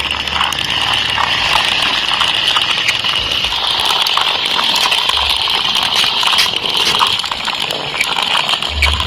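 Small DC motor running a wooden toy tractor: a steady whirring buzz with scattered clicks and rattle, and a few low bumps.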